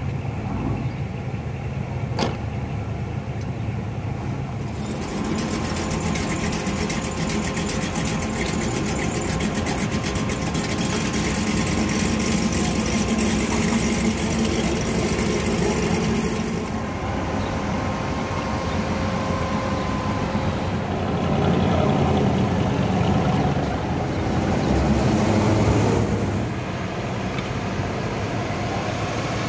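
Hot-rod car engines running and idling. About five seconds in, a louder engine with rapid, dense firing pulses joins, and the sound swells twice near the end as engines are revved or move by.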